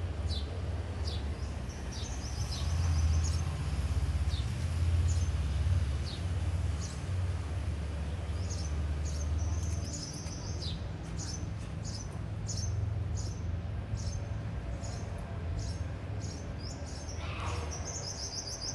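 Birds chirping: many short, high calls repeated throughout, with a few rapid high trills, over a steady low rumble.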